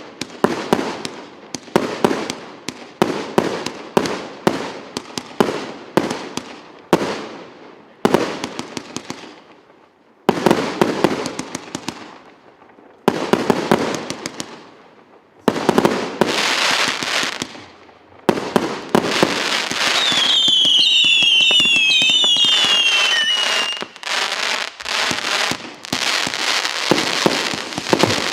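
Firework cake battery ("Две столицы", RS895) firing: rapid runs of sharp shots and bangs with short pauses between volleys. A dense stretch of crackling follows, with several overlapping whistles falling in pitch partway through.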